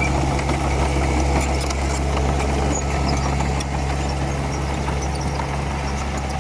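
Komatsu D31P bulldozer's diesel engine running at a steady low, even note with no revving, and faint scattered light ticks above it.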